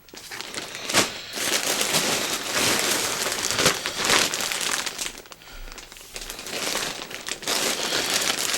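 Packaging bag crinkling and rustling as it is handled and opened to take out a pair of pants, with a sharp click about a second in.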